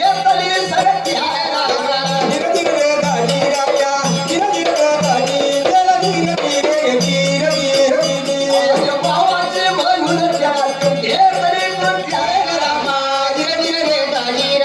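Folk music from a kalgi shahiri group: a wavering melody line over a steady, regular percussion beat with rattling jingles.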